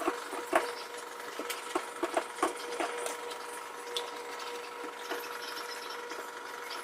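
Things being handled and shifted about while a fridge is cleaned out: scattered light knocks and rubbing over a steady hum, with a cluster of knocks in the first three seconds.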